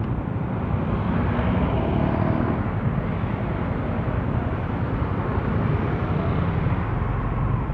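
Motorcycle riding through city traffic: steady engine and road rumble, picked up by a cellphone headset microphone.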